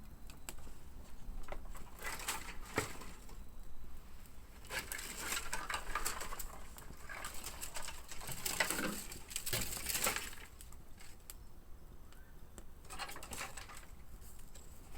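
Wood fire crackling and popping in irregular bursts of sharp snaps, busiest around the middle.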